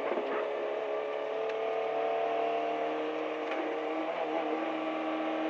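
Fiat 127's 903 cc four-cylinder engine heard from inside the cabin, pulling under throttle, its pitch rising gently over the first two seconds and then holding steady.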